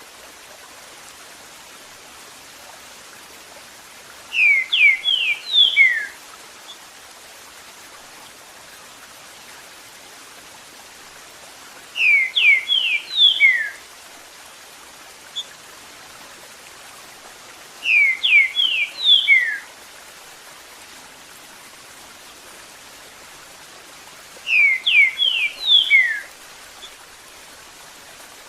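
Green-winged saltator (trinca-ferro) singing its 'eu sou terrível' phrase four times, about six seconds apart, each phrase a quick run of a few clear whistled notes, over a steady rush of running water.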